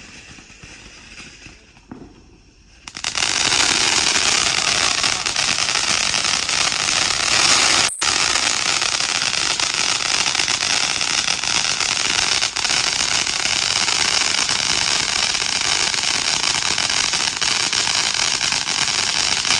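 A firework catches about three seconds in and burns with a loud, steady fizzing hiss of sparks, broken once by a split-second gap.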